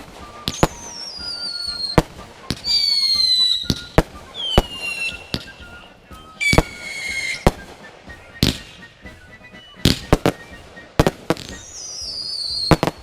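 Fireworks going off: a string of sharp bangs every second or so, mixed with whistling fireworks whose shrill whistles each slide downward in pitch over a second or so.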